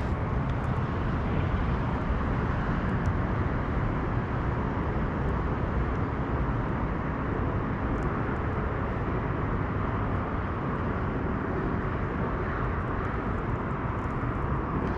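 Steady low rumble of wind on an action camera's microphone, at an unchanging level with no pitched engine tone, and a few faint light ticks.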